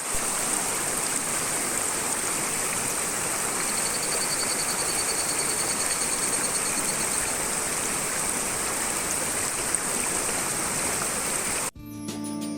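Mountain stream rushing steadily. From about four to seven seconds in, a higurashi (evening cicada) calls in a fast, pulsing trill. The sound cuts off abruptly near the end.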